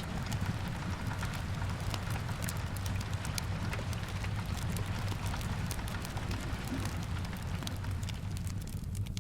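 Steady rain with a low rumble underneath and many small sharp ticks scattered throughout.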